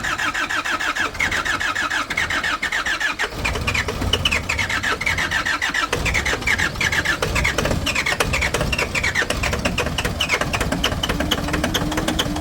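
A vehicle engine being cranked on its starter for a long spell without catching, with a rapid, even churning and a repeating falling whine. The cold is keeping the engine from starting.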